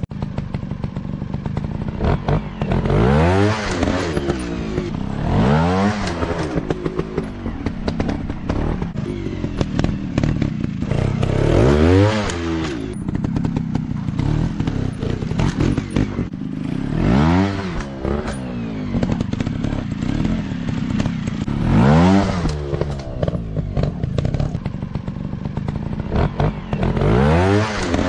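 Off-road dirt bike engines running, revving up and back down about six times a few seconds apart, with clattering knocks mixed in.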